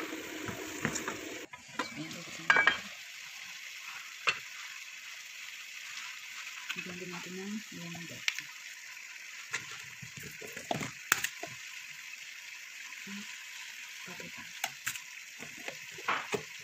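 Chicken pieces sizzling in a little oil in an aluminium stockpot: a steady frying hiss with scattered crackles and pops, and a few sharper knocks, the loudest about two and a half seconds in.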